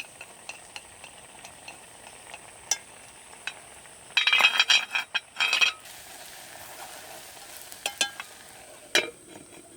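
Cooking at the pot: scattered small clicks, then a loud burst of clattering stirring and scraping in the pot lasting about a second and a half midway, followed by a couple of sharp knocks near the end.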